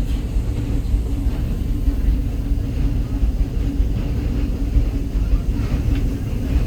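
Steady low rumble of the Walt Disney World Railroad train rolling along the track, heard from on board a passenger car.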